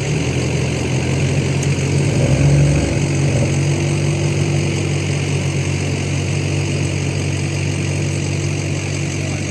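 Off-road vehicle's engine running steadily under throttle, swelling briefly about two seconds in, as the driver pushes on through the terrain.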